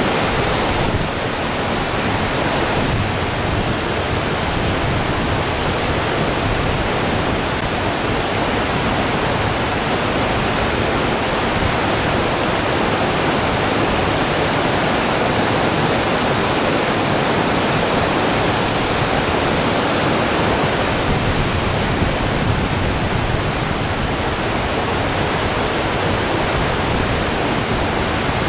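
Whitewater of a two-step river rapid rushing steadily, an even, unbroken roar of water.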